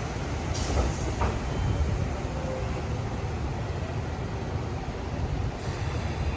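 Train running on the track: a steady low rumble with a couple of brief clicks about half a second and just over a second in.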